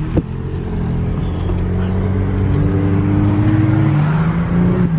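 Car engine running under load, its pitch climbing slowly through the second half as it accelerates.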